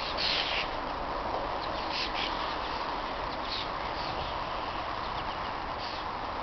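Short bird chirps a few times over a steady background hiss.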